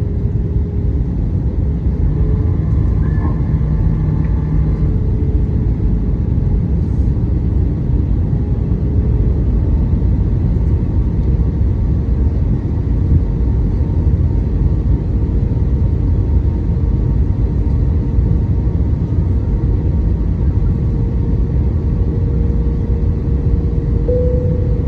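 Steady low rumble of an airliner cabin on approach to landing: engine and airflow noise, with a faint steady hum.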